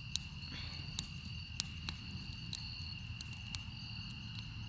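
Crickets trilling steadily, one unbroken high trill with a second, higher one starting and stopping in phrases, broken by a few sharp clicks.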